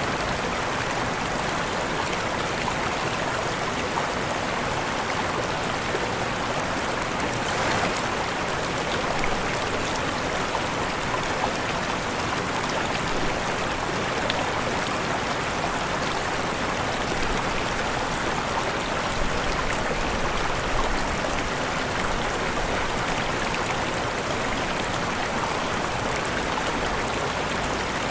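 Waterfall: a steady, even wash of falling water.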